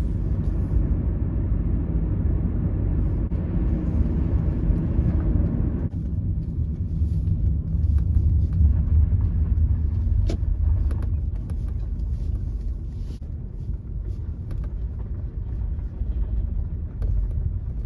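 Car driving, heard from inside the cabin: a steady low engine and road rumble with tyre hiss, the higher hiss dropping away about six seconds in. One short click about ten seconds in.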